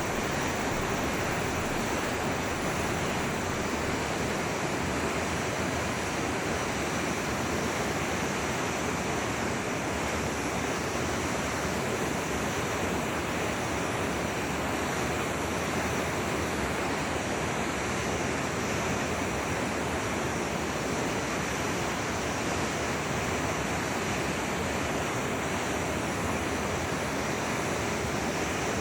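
Forest river flowing: a steady, even rush of water.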